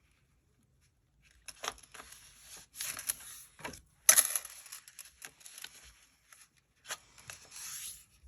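A sheet of copy paper being folded and creased by hand: a series of short, papery rustles and swipes starting about a second and a half in, the sharpest about four seconds in.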